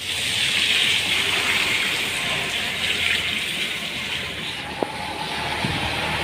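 Steady hiss of falling rain, with one sharp click about five seconds in.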